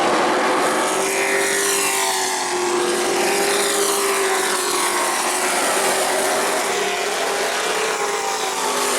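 Race truck engines running at speed on an asphalt short track. Several engine notes rise and fall as the trucks come by.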